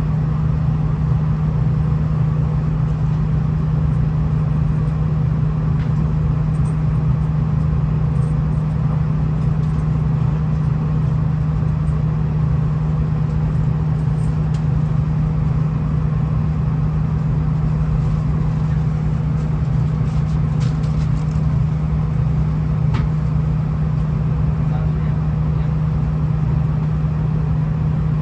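V/Line VLocity diesel railcar running with a steady low drone that holds level throughout, with a few faint clicks about two-thirds of the way in.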